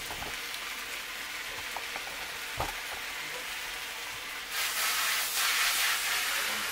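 Vegetable fried rice sizzling in a hot wok: a steady frying hiss that swells louder for about two seconds from around four and a half seconds in. A light knock about two and a half seconds in.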